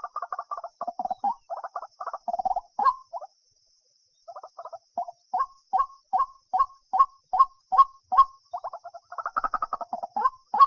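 White-breasted waterhen calling: fast runs of short notes, a pause of about a second near the middle, then a string of evenly spaced single notes at about two and a half a second, and the fast runs again near the end.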